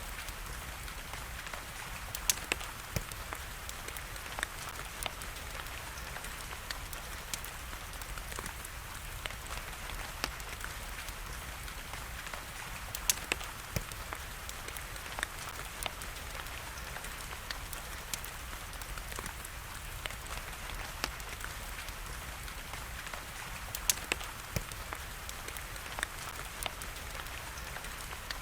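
Steady rain hiss with sharp, irregular pops of a crackling wood fire scattered through it; a few pops stand out louder than the rest.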